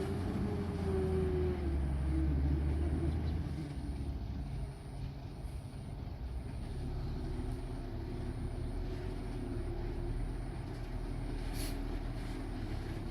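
Komatsu D20P mini bulldozer's diesel engine running under load, louder for the first few seconds, then easing off to a steady drone. A single sharp clank comes near the end.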